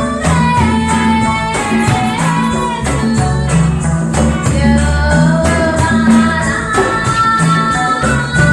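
Live band playing a reggae-style song: a gliding melody line over a steady bass line, with evenly spaced percussion strokes keeping the beat.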